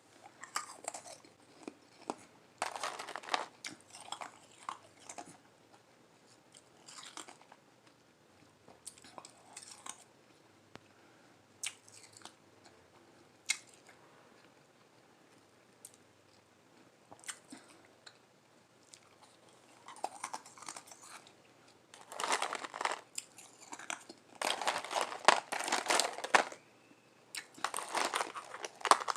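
A person biting and chewing lime-flavoured Igloo ice, a soft crunch close to the microphone. The crunches come in uneven bursts with gaps, thinning out in the middle and coming thick and fast near the end.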